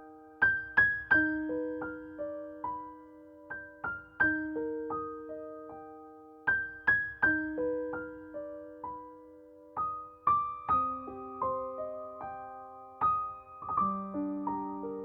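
Soft background piano music: single struck notes that ring and fade, in a slow repeating melody, moving into a lower register about ten seconds in.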